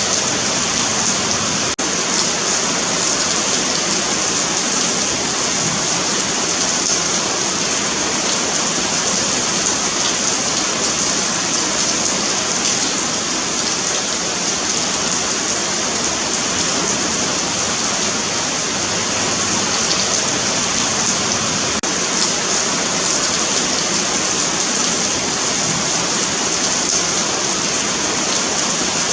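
Rain falling steadily on a paved sidewalk: a continuous, even patter with a bright hiss.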